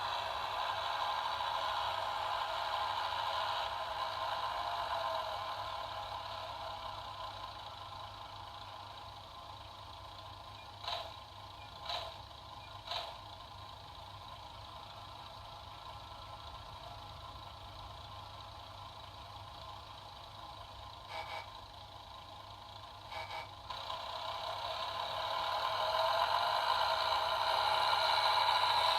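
Sampled 8-bit diesel engine sound from a Digitrax sound decoder in a model class 108 diesel multiple unit, played through its small onboard speaker. It fades over the first ten seconds and grows louder again near the end. Three short, sharp sounds about a second apart come in the middle, and a few more follow later.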